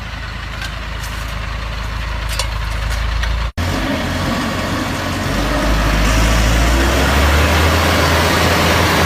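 Heavy truck engine running steadily. It cuts off abruptly about three and a half seconds in, then comes back louder, with more noise across the range.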